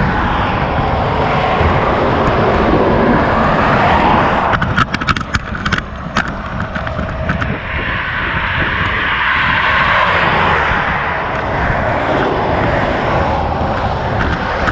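Roadside traffic noise: vehicles going past at highway speed, the rushing sound swelling twice as they pass. A run of sharp clicks or knocks comes about five to seven seconds in.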